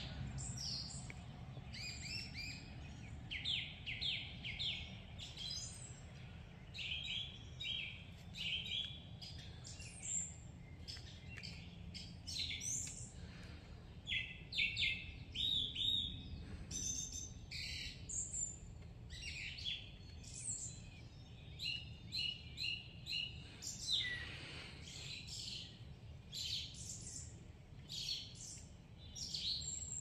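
Several birds singing and chirping, with short overlapping calls and trills following one another throughout, over a low steady background rumble.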